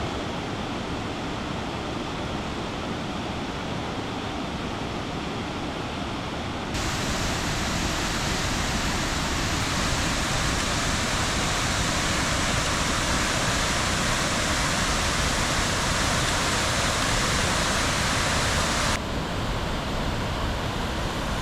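Waterfall rushing: a steady, dense hiss of falling water with no breaks. It steps up suddenly, louder and brighter, about seven seconds in and drops back a little near the end.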